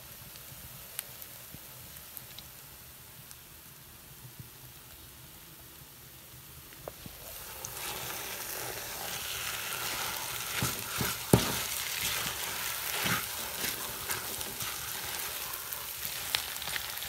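Halwa frying in a steel pot, a faint sizzle at first that grows louder about seven seconds in as a steel spoon stirs and scrapes through it. Clicks of spoon on pot run through the louder part, with one sharp knock a little past the middle.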